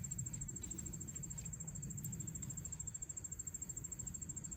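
Steady high-pitched insect chirring in a fast, even pulse, over a low steady rumble.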